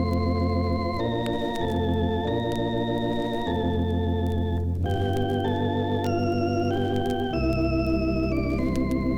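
Organ music: a slow melody played in held chords over a sustained bass note, the notes changing about once a second, with a gentle wavering vibrato.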